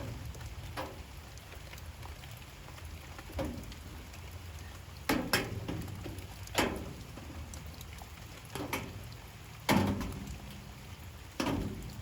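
Light rain, with big drops falling irregularly onto a hard surface, each landing as a sharp tap over a steady low background hiss, about eight taps in all.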